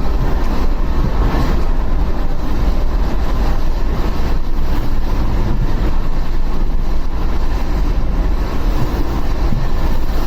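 Steady rush of wind over the microphone of a moving motorcycle, with its engine and road noise underneath.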